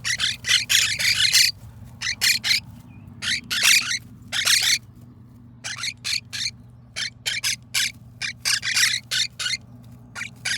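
Baby quaker parrot (monk parakeet) chicks, 27 days old, giving rapid harsh chirping squawks in irregular bursts of several calls a second, over a steady low hum.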